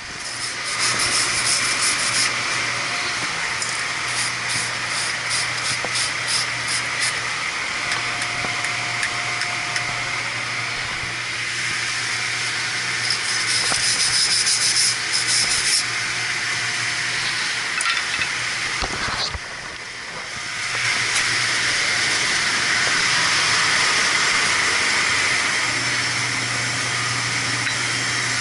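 Loud, steady hissing of a boiler's burner assembly being cleaned, with two spells of quick, rhythmic scrubbing strokes over a steady low hum.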